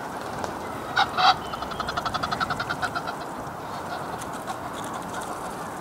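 A goose honks twice loudly, then gives a rapid run of short calls lasting about two seconds.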